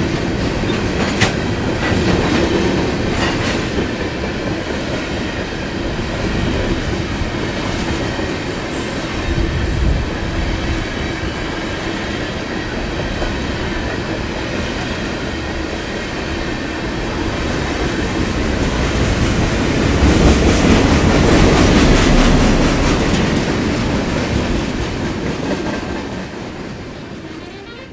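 Freight train cars rolling past, steel wheels clacking over rail joints with some high wheel squeal. The noise swells about 20 seconds in and fades in the last couple of seconds.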